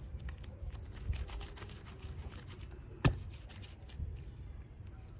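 Hands handling super clay and its small plastic packaging: faint rustling and scraping, with one sharp click a little past three seconds in.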